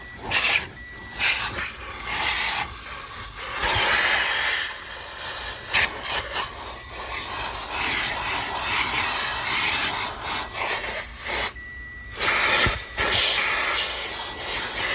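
Car wash vacuum hose sucking air through its nozzle tool as it is worked over the car's carpet and seats. The rushing hiss swells and drops as the nozzle is pressed in and lifted, with rubbing scrapes and a faint high whistle at times.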